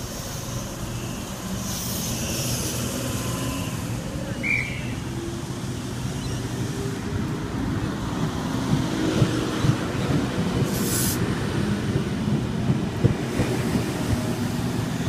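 Sydney Trains K-set electric train pulling out of the station, a faint rising tone over a steady rumble. About halfway through come a run of sharp knocks as its wheels pass over rail joints, gathering speed.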